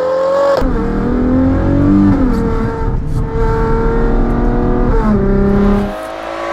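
High-performance SUV engine running hard under acceleration, its pitch climbing and then holding, with abrupt changes in pitch about half a second in and again near five seconds in, and a drop in loudness near the end.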